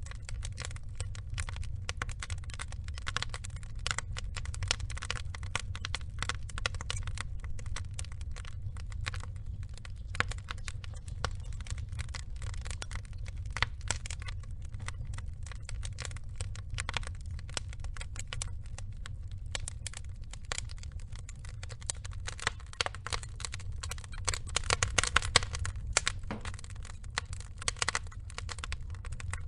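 Wood fire burning with a low steady rumble and dense irregular crackling and popping, with a busier run of louder pops about 25 seconds in.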